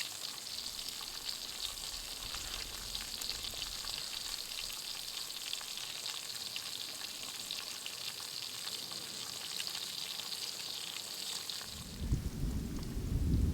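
Beef steak sizzling as it cooks over a campfire: a steady frying hiss peppered with small crackles and pops. Near the end a louder low rumbling noise comes in.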